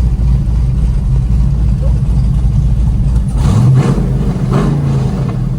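Chevrolet C10 race truck's engine heard from inside the cab while driving: a steady low drone that swells louder about three and a half seconds in, as if revving, then settles back.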